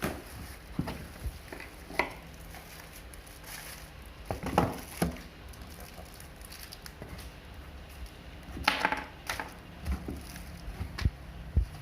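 Irregular light clicks and knocks from vacuum cleaner parts and packaging being handled, with a few louder knocks about four and a half and nine seconds in.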